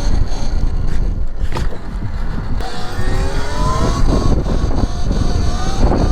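Talaria X3 electric dirt bike's motor whining, rising in pitch about three seconds in as it accelerates, over a steady rumble of wind and riding noise.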